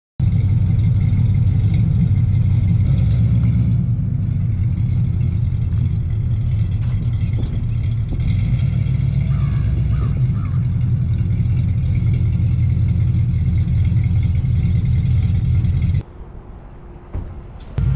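A truck's engine running with a steady low rumble. It drops away sharply about sixteen seconds in and comes back just before the end.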